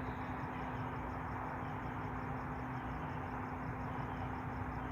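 Steady outdoor background noise with a low, even hum, and a faint, fast, regular high chirping throughout; the strange loud sound has stopped.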